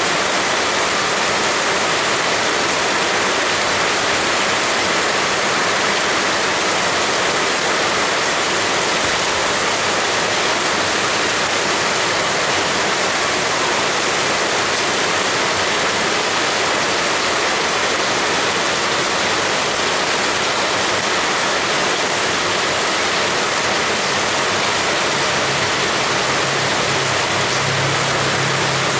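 Heavy rain falling steadily, a dense, even hiss. A low hum joins in near the end.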